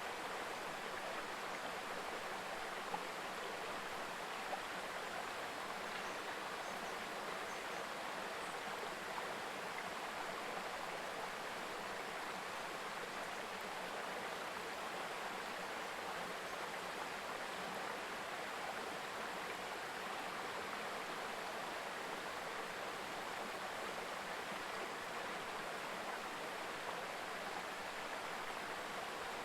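Mountain river babbling over rocks: a steady, even rush of flowing water.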